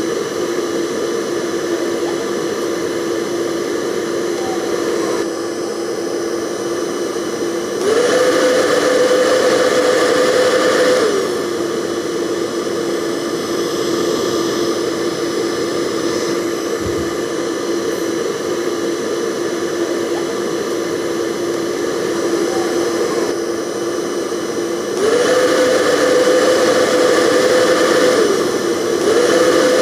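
Hair dryer running steadily, a constant whoosh of air over its motor's hum. Twice, about eight seconds in and again near the end, the motor's pitch steps up and the sound gets louder for a few seconds before settling back.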